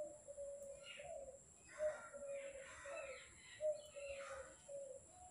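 Birds calling: a run of short notes on one low, steady pitch, about two a second, with harsher, noisier calls over them about one, two and four seconds in.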